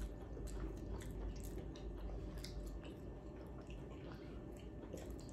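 Close-up mouth sounds of someone chewing fried chicken wing: irregular small wet clicks and smacks, over a low steady hum.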